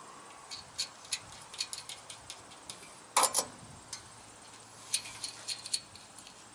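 Irregular light metallic clicks and taps of hardware being handled while a replacement condenser fan motor is fitted to its mount, with one louder clatter about three seconds in.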